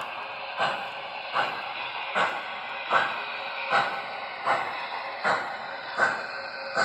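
O scale model steam locomotive's onboard sound system playing steady steam chuffs, about one every 0.8 seconds, over a continuous hiss, as the locomotive runs at a slow, even speed.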